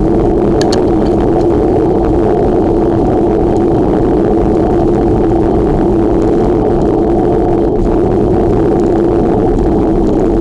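Steady, loud wind noise buffeting the camera's microphone while riding a bicycle, a low rushing roar that doesn't let up.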